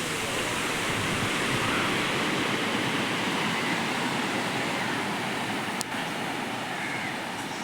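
Ocean surf washing steadily onto a beach, with a brief click about six seconds in.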